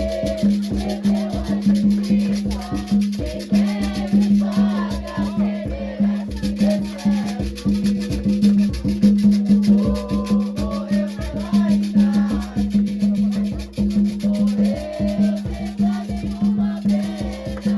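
Afro-Brazilian ritual music: hand drums, likely atabaques, beat a fast, steady rhythm with a shaker, while voices sing a chant over them.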